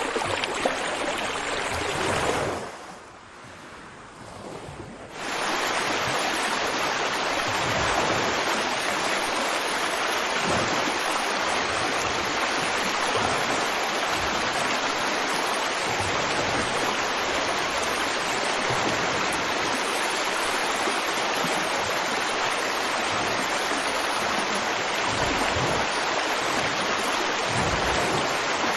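River water flowing over rocks, a steady rushing. About two seconds in it fades down to a much quieter hush for a few seconds, then comes back at full level at about five seconds.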